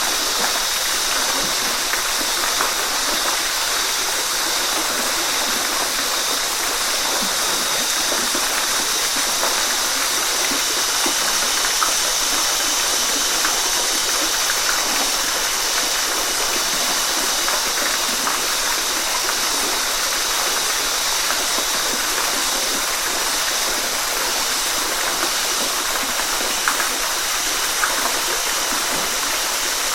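Waterfall: water pouring and splashing, a steady rushing with small splashes here and there.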